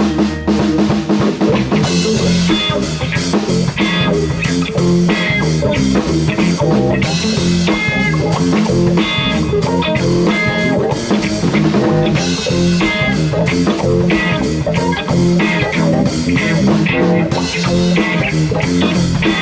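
Live rock band playing: electric guitar, bass guitar and drum kit, the full drums coming in about two seconds in.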